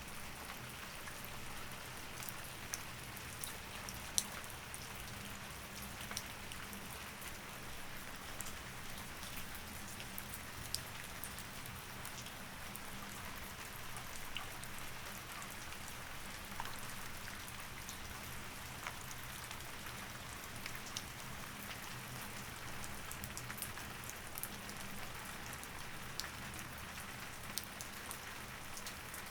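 Steady rain, with many small, sharp drop hits scattered through it.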